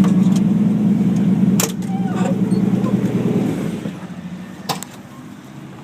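Ford 460 big-block V8 in a truck running on the road, then its sound falling away about two thirds of the way in as the truck eases off. A couple of sharp clicks are heard, one near the middle and one near the end.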